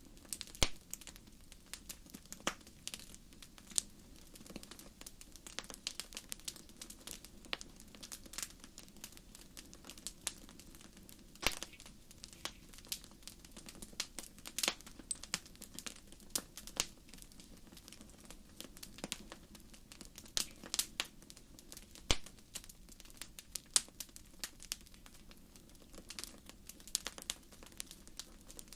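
Wood fire crackling in a fireplace: irregular sharp pops and snaps, several a second and a few louder ones, over a soft steady hiss of the flames.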